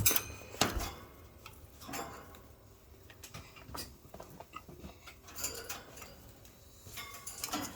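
Budgie pecking and gnawing at wood in its cage: irregular small sharp clicks and taps from its beak, a second or so apart.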